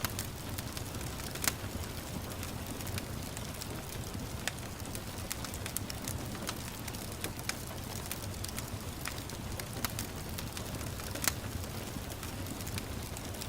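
Wood fire burning in a fireplace, a steady low rumble of flame with irregular sharp crackles and pops, two of them louder than the rest.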